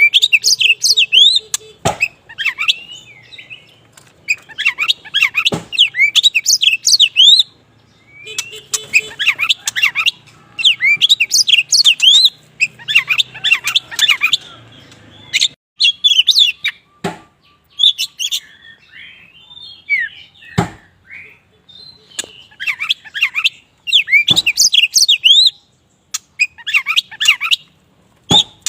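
Oriental magpie-robin of the black 'wulung' form singing hard, in bursts of quick, varied chirps and whistles with short pauses between them, and a few sharp knocks now and then.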